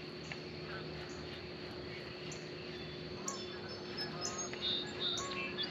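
Birds chirping in short, scattered calls, over a faint steady hum.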